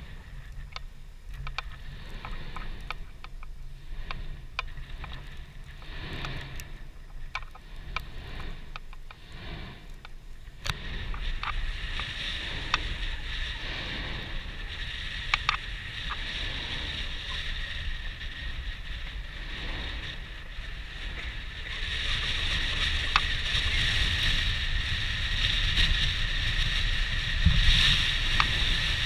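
Mount Yasur volcano's vent giving off a continuous low rumble and wind-like rushing from its heat, growing louder in steps about ten seconds in and again past twenty seconds, with a louder whoosh near the end. Irregular light clicks from the camera handle's cord tap through the first ten seconds.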